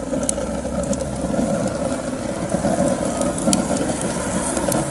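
Fire burning in a homemade rocket stove, the draught drawing air in with a steady rumble, with a few sharp crackles from the burning wood.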